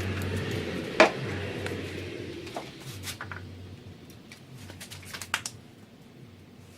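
A few sharp clicks and clinks of parts and hand tools being handled on an engine, the loudest about a second in, over a low hum that fades away.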